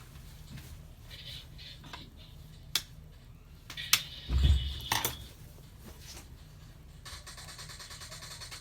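Small hard tools and parts clicking and clinking on a repair bench, with a heavier knock about halfway, then a faint, fast, even buzz near the end.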